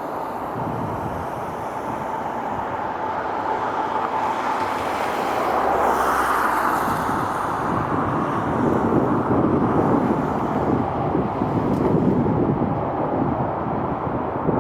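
Jet airliner engine noise building up as a plane passes, a faint whine at first giving way to a broad rumble that grows louder about halfway through. Wind buffets the microphone.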